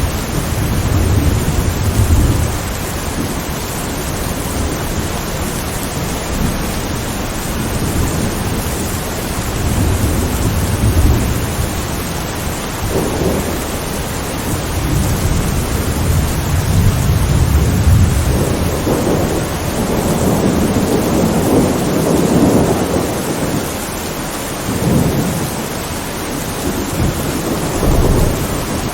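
Steady heavy rain hissing, with low rolling thunder that swells and fades again and again, each rumble lasting a few seconds.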